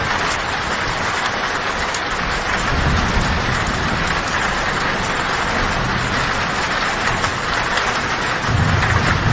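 Heavy rain falling steadily on a tin roof, with low thunder rumbling that swells up a few times, strongest near the end.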